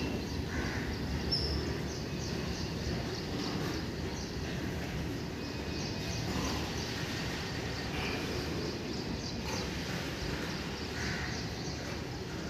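Loaded freight train of flat wagons rolling slowly along the rails with a steady low rumble, and faint regular clicking over it.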